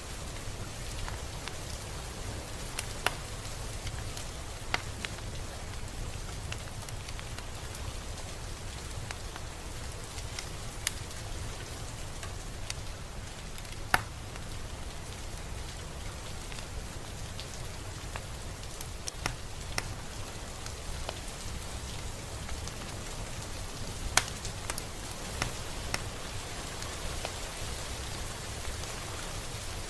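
Steady rain falling, an even hiss with occasional louder single drops ticking out sharply against a surface.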